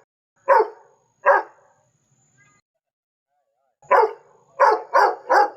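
Dog barking: two barks, a pause of about two seconds, then a run of four quick barks.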